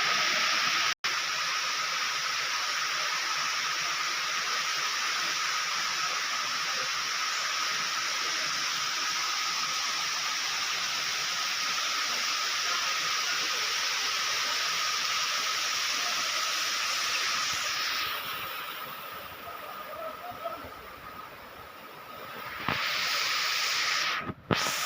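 Waterfall's steady rushing noise of falling water. It cuts out for an instant about a second in, and grows softer and duller for a few seconds near the end before coming back.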